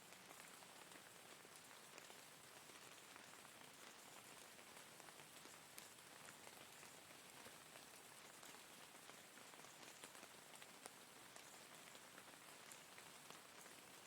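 Faint, steady rain: an even hiss of falling rain with scattered sharper ticks of single drops.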